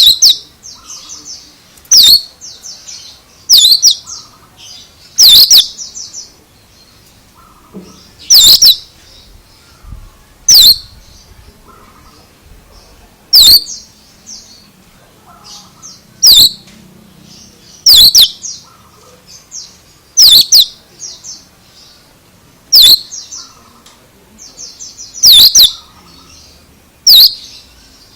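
Oriental magpie-robin (kacer) calling: loud, sharp high notes repeated every two seconds or so, with softer twittering phrases between them.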